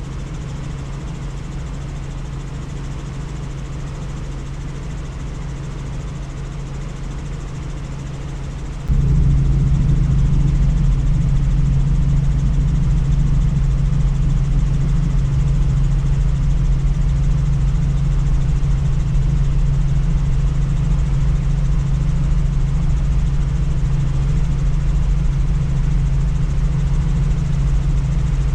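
Helicopter in flight: a steady engine and rotor drone with a low rumble. It jumps suddenly louder about nine seconds in and stays there.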